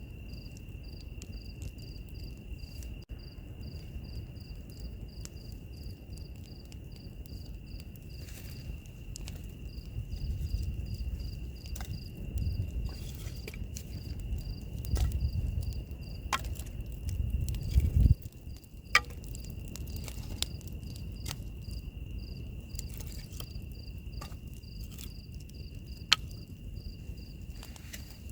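Crickets: one steady high trill, with a second chirping in even pulses a few times a second. Wood fire crackling underneath with scattered sharp pops, and a low rumble that swells from about ten seconds in and cuts off sharply near eighteen seconds.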